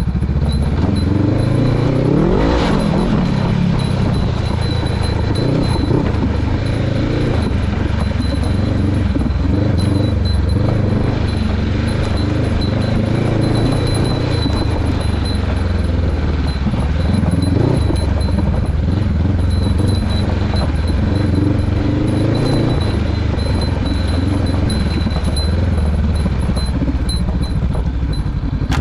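Motorcycle engine running steadily while riding, with a rise in revs about two to three seconds in and some clatter over it.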